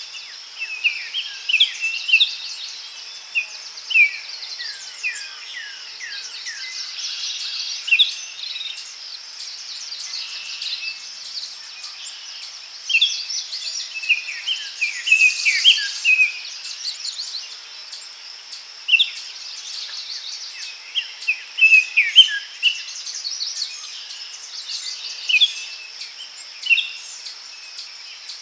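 Daytime forest ambience: many small birds giving short chirps and quick down-slurred calls, scattered through the whole stretch, over a steady high-pitched insect buzz.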